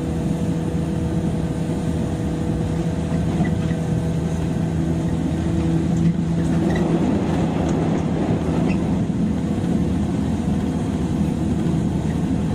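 Running noise heard inside a 103-series electric train's motor car at a steady speed: wheels rumbling on the rails under a steady hum from the traction motors and gears.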